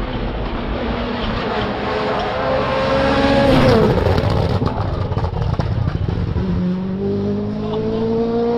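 Rally car engine revving higher as it approaches, passing loudest about three and a half seconds in with a sudden drop in pitch, followed by a run of sharp crackles. Near the end the engine pulls again with a rising pitch.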